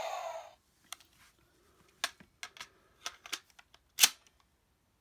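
Hard plastic toy parts being handled and fitted together: a short scraping rustle at the start, then a handful of small clicks and knocks, the loudest a sharp snap about four seconds in, as the Assault Grip is clicked back onto the switched-off Progrise Key.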